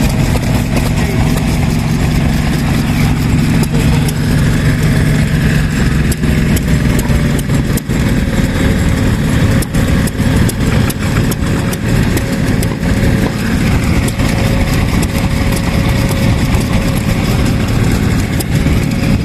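Vintage stationary petroleum engines running steadily, a continuous mechanical sound with many sharp knocks.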